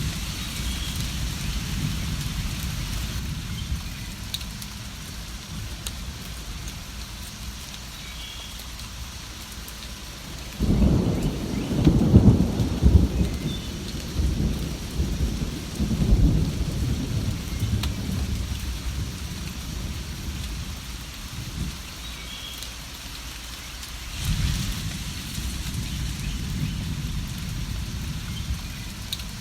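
Steady rain with a long rolling rumble of thunder that swells about ten seconds in, peaks a couple of seconds later and dies away over several seconds. A smaller rumble rises near the end.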